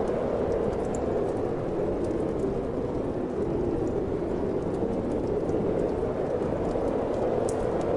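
Steady wind noise with sparse, faint crackles of a wood fire in a fireplace.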